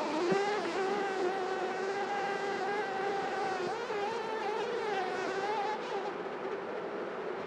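Honeybees buzzing around an open hive, with one or more bees flying close to the microphone. Their steady buzz wavers a little in pitch.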